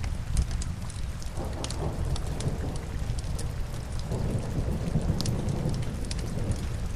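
Steady rain with a low rumble beneath it and scattered sharp crackles of burning logs in a fireplace; deeper swells come in about a second and a half in and again from about four seconds.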